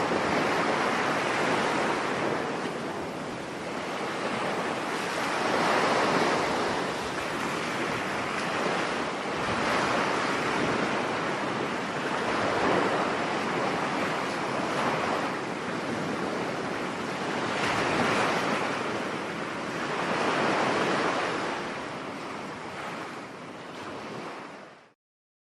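Stormy sea surf on a beach: waves breaking and washing in, swelling and easing every few seconds, with wind. It fades out near the end.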